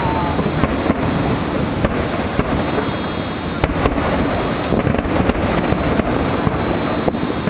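Fireworks display bursting: a continuous rumble of overlapping booms, with sharp cracks about every second.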